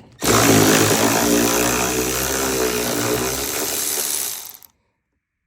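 Handheld power tool running steadily for about four and a half seconds, its motor pitch wavering slightly, then cutting off abruptly.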